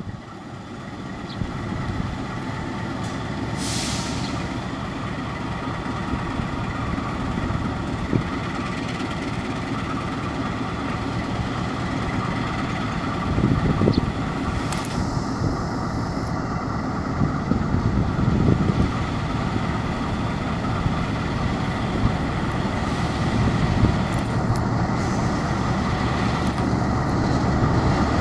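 KAI CC206 diesel-electric locomotive approaching with its passenger train: a steady low engine and wheel rumble that swells in over the first couple of seconds and grows slightly louder toward the end. A brief hiss about four seconds in.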